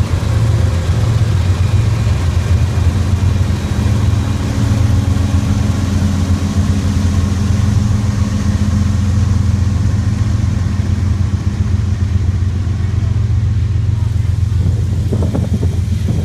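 CSX diesel locomotives passing at low speed with a steady, deep engine drone, followed by ballast hopper cars of a rock-spreading train rolling by on the rails.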